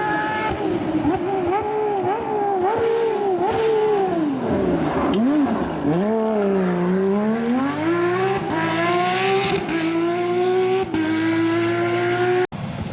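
Porsche rally car engine at full effort, its pitch rising and falling with the throttle, dropping low as the car slows about halfway through, then climbing steadily as it accelerates, with a brief break at a gear change. The sound cuts off abruptly near the end.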